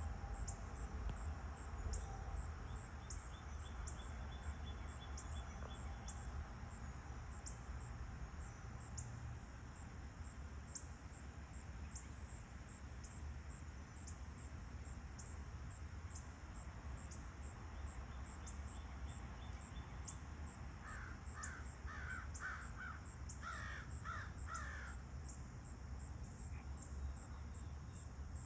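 A high insect chirp repeating about once a second over a low steady rumble. About twenty seconds in, a bird calls in two quick runs of several calls each.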